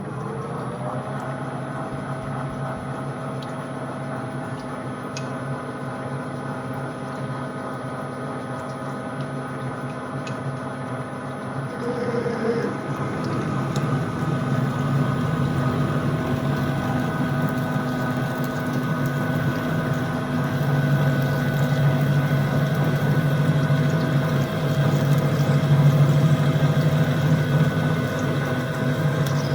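Metal lathe running steadily while turning steel round bar, a constant machine hum with several steady whining tones, growing louder about twelve seconds in.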